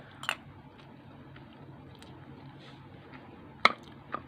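A person eating: quiet chewing with a few short sharp clicks, the loudest near the end, over a low steady hum.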